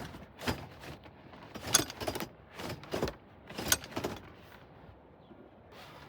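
Knocks and clunks of a BMW E46's rear seat being worked loose and pulled out: a string of sharp knocks, several in quick pairs about a second apart, dying away in the last second or two.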